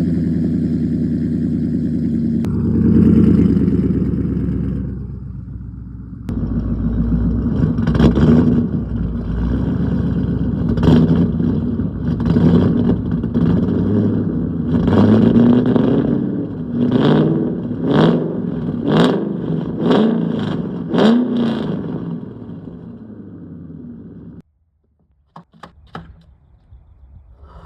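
Car engine blown out through traffic cones fitted over its circular exhaust tips: it runs steadily, then is given a series of about ten short revs, each rising and falling in pitch. The sound cuts off suddenly near the end, followed by a few faint clicks.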